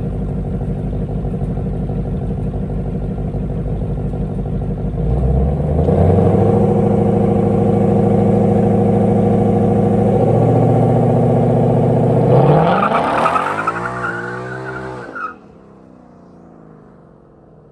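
Car engine running, rising in pitch about five seconds in and holding there, then revving up sharply and cutting off suddenly near the end.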